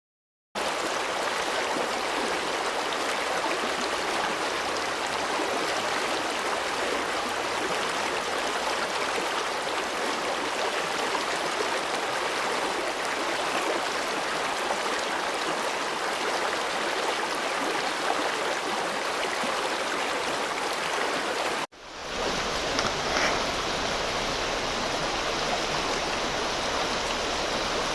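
Creek water running steadily. About three-quarters of the way through there is an abrupt cut to a second stretch of running water with more low rumble.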